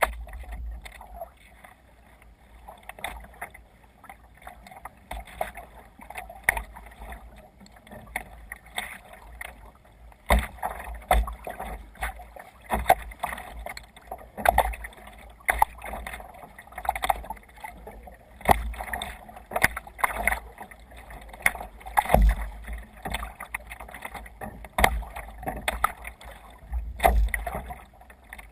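Water splashing and slapping around a sea kayak under way, in irregular splashes about a second apart, with a low rumble underneath.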